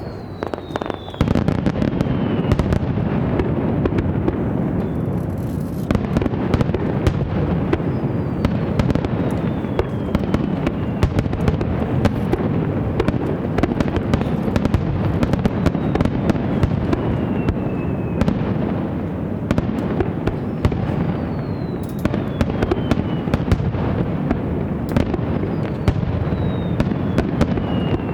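Aerial fireworks in a dense barrage: continuous rapid bangs and crackling, with a falling whistle sliding down in pitch every several seconds, five times in all.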